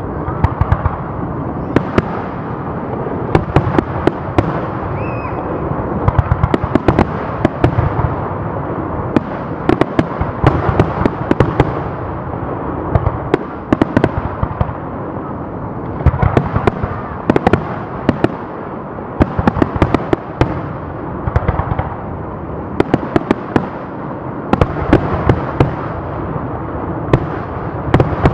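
Fireworks display: aerial shells bursting one after another, sharp bangs in quick clusters every second or two over a steady rumbling background of distant bursts.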